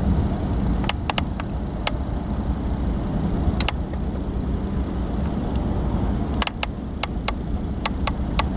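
Freight train rolling past: a steady low rumble with scattered sharp clicks, a few about a second in and a quick run of them near the end.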